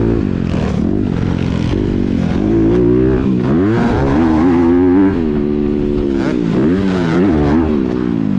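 Honda CRF250R dirt bike's single-cylinder four-stroke engine, through a Yoshimura titanium exhaust, revving hard under load, its pitch climbing and dropping again and again with throttle and gear changes, with sharp dips about three seconds in and near the end.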